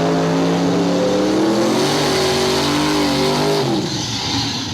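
Drag racing cars at full throttle, engine note holding and then climbing as they accelerate hard down the strip, dropping away about three and a half seconds in.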